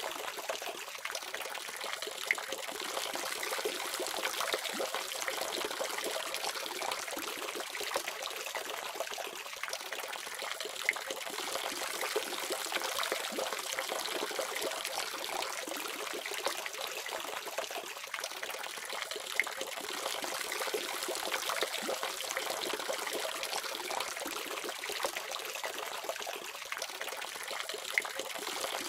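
Water faucet running in a steady stream, splashing and trickling evenly, with a few brief sharp splashes.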